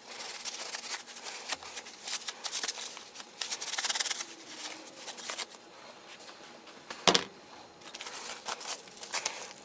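Cordless drill/driver being worked on by hand: small parts and tools clicking and rattling, with one sharper knock about seven seconds in.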